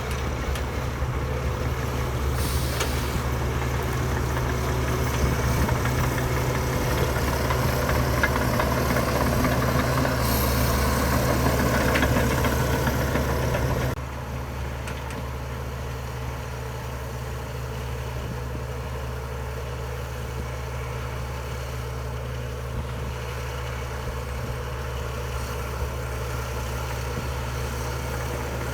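Heavy diesel engine of earthmoving machinery running steadily. About halfway through it drops suddenly to a quieter, steadier drone.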